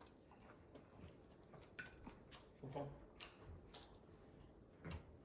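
Near silence with faint, scattered clicks and smacks of people eating prawns, and a brief low murmur of voice about two and a half seconds in.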